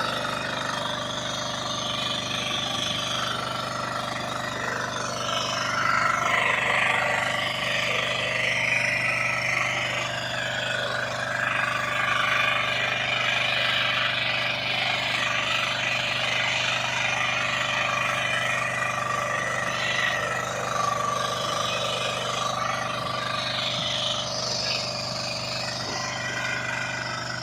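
Small farm tractor's engine running steadily, with a rough, shifting clatter over the steady engine note.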